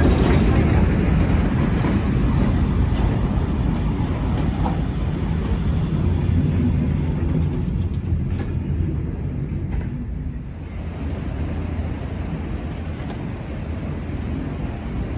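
Train running on the line: a steady low rumble that slowly fades.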